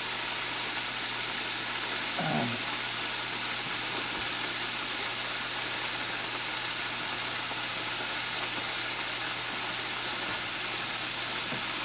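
Chicken pieces frying in hot oil in an open aluminium pressure-cooker pot, a steady sizzle with the oil at about 267 degrees.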